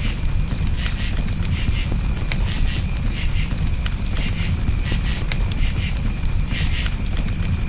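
Campfire crackling, with scattered sharp pops over a steady low rumble, while crickets chirp in repeated pulsed bursts over a steady high ringing.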